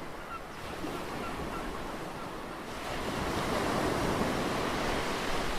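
Sea surf washing in: a steady rushing noise that swells about three seconds in, with a few faint short calls that fit seagulls.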